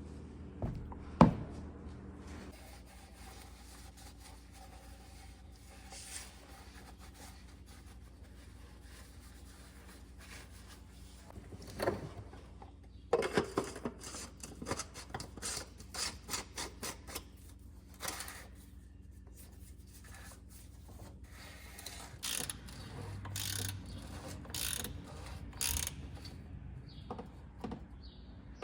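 Scattered clicks, scrapes and rubbing of parts and containers being handled during an oil change, over a faint steady low hum. The handling noises are sparse at first and come thick and fast through the second half.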